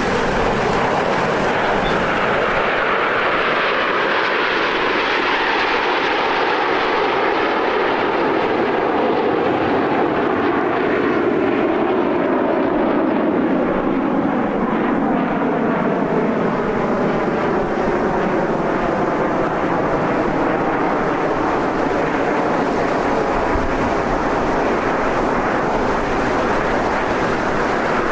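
Aermacchi MB-339 jets flying past, a loud steady engine noise whose pitch sweeps slowly downward as they go by, then holds.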